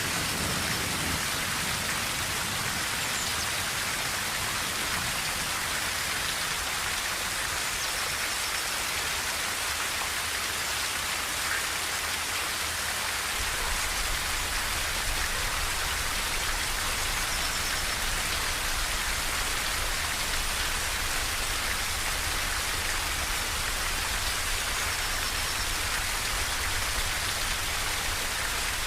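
Steady rain drumming on a tin roof as an even hiss. The low rumble of a thunder roll dies away in the first second.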